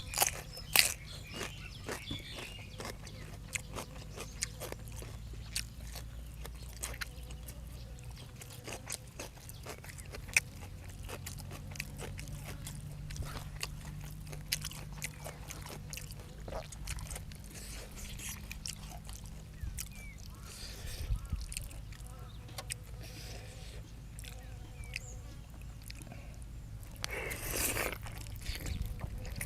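A person eating up close: chewing and biting with frequent small crunching clicks and smacks, over a steady low background hum. There is one louder, longer sound near the end.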